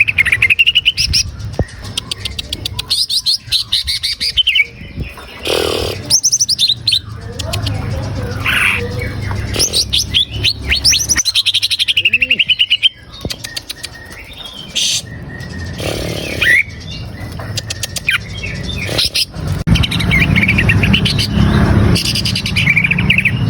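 Greater green leafbird (cucak ijo) singing a fast, varied song of gliding whistles and rapid chirp trills in phrases with short pauses, over a steady low hum.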